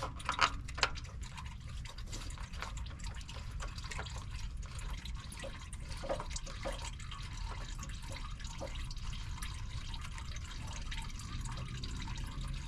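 Engine oil dripping from the oil filter housing into a catch cup, with small clicks and ticks as a plastic drain-hose fitting is screwed into the housing by hand. Two sharper clicks come near the start.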